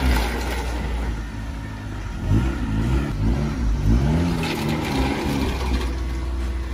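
Ninth-generation Honda Civic Si's 2.4-litre four-cylinder engine driving the car, its pitch rising and falling several times as it accelerates and eases off, over a heavy low rumble.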